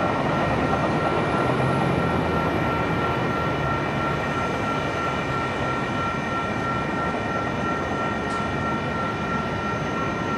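Bi-level commuter train running away along the main line, a steady rumble slowly fading, with a steady high-pitched whine sounding over it.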